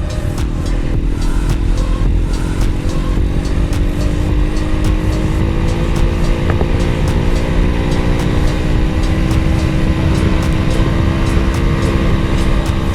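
Pit bike engine running under way, its pitch slowly climbing as the revs rise over several seconds.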